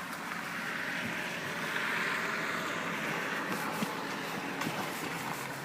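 A vehicle on the move: a steady hiss of tyres and running noise that swells about two seconds in and then eases off.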